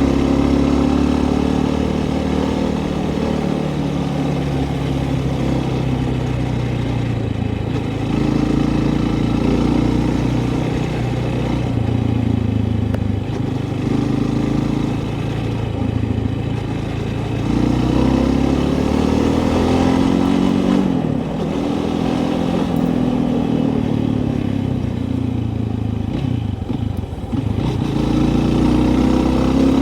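A vehicle engine running steadily, its pitch rising and falling every few seconds as engine speed changes.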